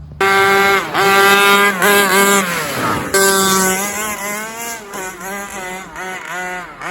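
Two-stroke gas engine of a 1/5-scale Rovan Baja 5T RC truck revving hard as the truck pulls away. It eases off about two and a half seconds in, revs up again, then grows fainter with a wavering pitch as the truck drives off.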